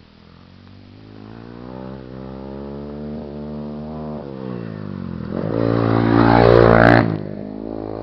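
Motocross dirt bike engine revving through a corner, its pitch climbing and dropping with the throttle. It surges loudest as the bike passes close, about six seconds in, then drops off sharply.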